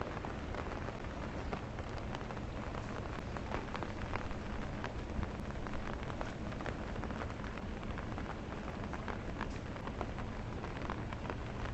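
Steady rain falling, with many small, close raindrop hits ticking through it.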